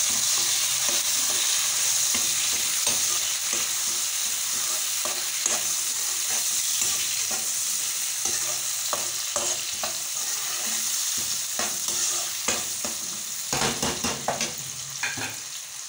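Chopped tomatoes and sliced onions sizzling in hot oil in a wok, stirred with a spatula that scrapes against the pan in short, repeated strokes. The sizzle is loud and steady, the tomatoes having just gone into the oil, and the scraping comes thickest near the end.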